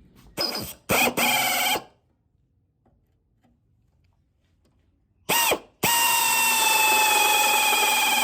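Handheld electric power tool blipped on twice with short whines, then, after a pause, triggered briefly and started again. It then runs steadily with a high whine that sags slightly in pitch.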